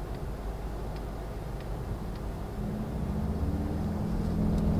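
Inside the cabin of a Volkswagen Golf R, there is steady road noise. About two and a half seconds in, a low engine drone comes in, rising slightly in pitch and growing louder. It is the turbocharged four-cylinder's note, boosted through the car's sound actuator after a switch from comfort to race mode.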